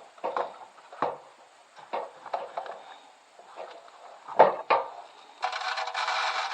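Knocks and clatter of a bird feeder and seed scoop being handled, with a sharp double knock past the middle. About a second before the end, birdseed starts pouring into the feeder with a steady rattle.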